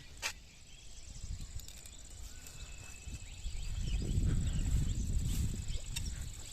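Outdoor insects giving a steady, high-pitched, unbroken trill, with a single sharp click just after the start. A low rumble swells from about three and a half seconds in and fades near the end.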